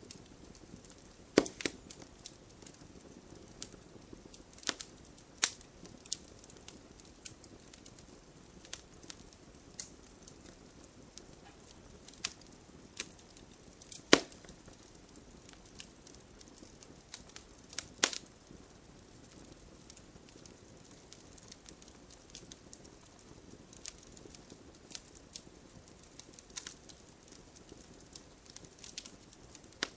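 Wood fire crackling: irregular sharp pops and snaps over a faint steady hiss, with a few louder pops about 1.5, 14 and 18 seconds in.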